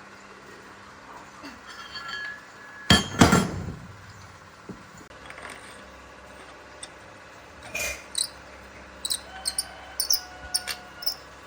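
Metal tools and parts clanking during truck repair work: a loud clank with a short ring about three seconds in, another near eight seconds, then a quick run of light metallic clinks near the end.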